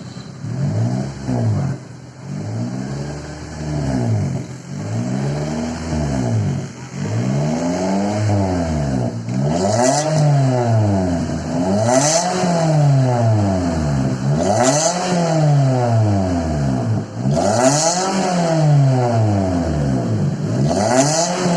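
Suzuki Swift engine heard through an Omega Titan R2 stainless steel aftermarket muffler, revved over and over in short blips, about one every two seconds. Each rev's pitch rises and falls back, and the revs grow higher and louder in the second half.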